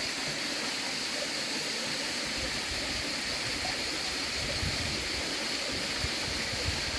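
River water flowing steadily: a constant, even rush, with a few low rumbles in the second half.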